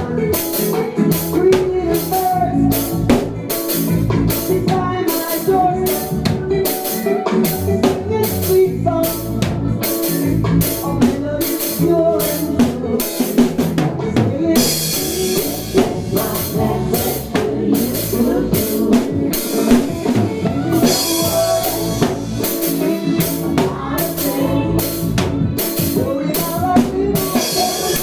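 Drum kit played along to a reggae backing track: a steady groove of bass drum, snare and rimshot hits over the recorded song. The cymbals ring out brighter about halfway through and again a few seconds later.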